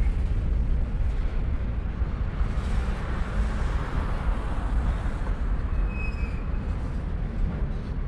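Norfolk Southern freight train of tank cars rolling slowly over a railroad bridge: a steady low rumble. A car passes on the street below, its tyre noise swelling and fading around the middle.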